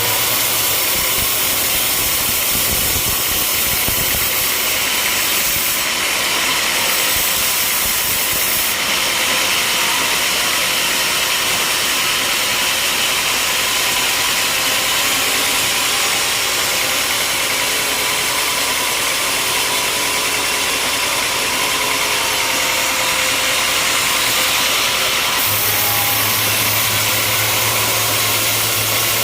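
Sawmill machinery running steadily with a dense hiss. The sound shifts about nine seconds in and again near the end, when a low hum returns.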